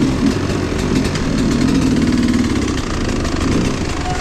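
A small vehicle engine revving up and down over and over, its pitch rising and falling with the throttle, over a steady rushing noise.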